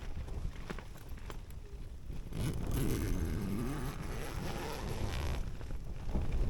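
Wind buffeting with low rumbling, a few light clicks at first, then a stronger gust about two seconds in.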